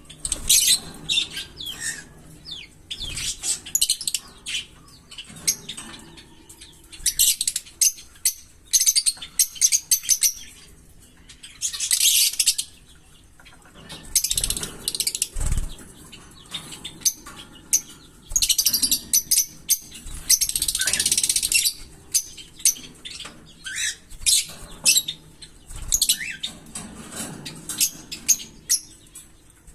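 Small pet parrots chirping and chattering in quick high-pitched bursts, with short pauses between them.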